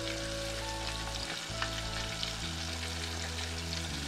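Flour-coated chicken karaage pieces frying in hot oil: a steady sizzle with scattered small crackles.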